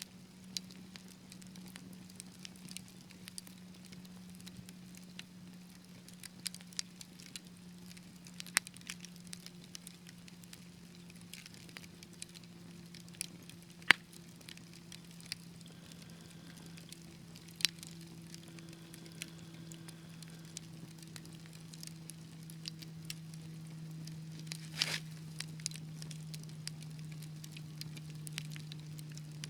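Fireplace fire crackling, with irregular sharp pops scattered throughout; the loudest come about 14 and 18 seconds in, with a longer crackle near 25 seconds. Under the crackling runs a steady low hum that slowly sinks in pitch.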